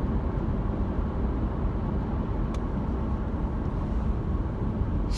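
Steady low rumble of road and engine noise inside a moving car's cabin, with a faint click about halfway through.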